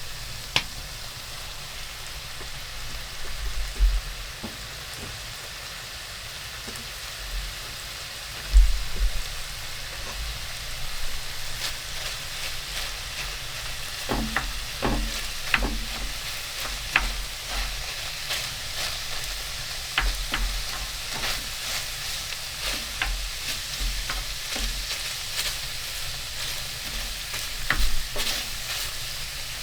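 A steady sizzling hiss with scattered sharp crackles and pops, which grow more frequent about halfway through, and a few dull thumps.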